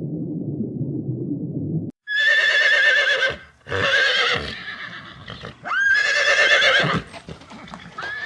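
A horse whinnying three times, starting about two seconds in: loud, high, quavering neighs. Before them, a low rumbling noise from the previous clip cuts off.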